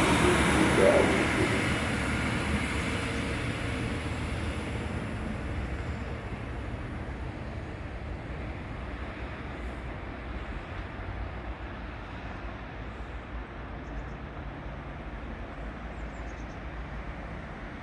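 Train moving through the station: loud rail and running noise at first that fades over the first few seconds as the train draws away, leaving a steady low rumble.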